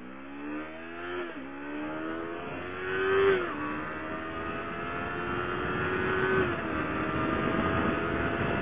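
Yamaha R6 sportbike's inline-four engine with a short aftermarket exhaust accelerating hard through the gears: the engine note climbs, drops sharply at an upshift about a second and a half in, climbs again, shifts again around three and a half seconds and near seven seconds, then keeps climbing.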